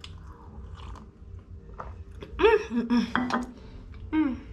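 A woman sipping from a mug, then chewing a mouthful of food, with loud wordless voice sounds of enjoyment sliding up and down in pitch about halfway through and a shorter falling one near the end.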